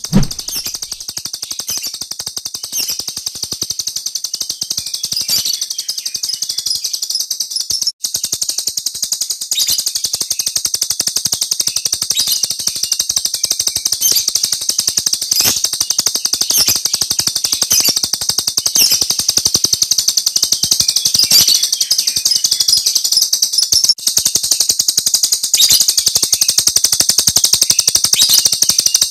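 A Jalak Rio (starling) giving its 'tembakan' song: fast, high-pitched bursts of chirps and shrill notes fired off one after another without pause, with two brief breaks in the stream.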